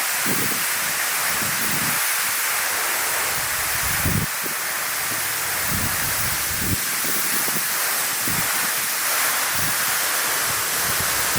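Steady rushing hiss of water falling from a tall vertical waterfall, with low rumbles now and then.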